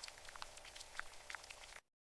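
Water trickling and dripping, with many short, bright plinks of drops at irregular moments; it cuts off suddenly near the end.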